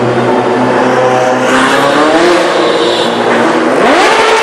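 Supercar engine revving hard as the car accelerates past: its pitch climbs, falls away, then rises sharply again near the end.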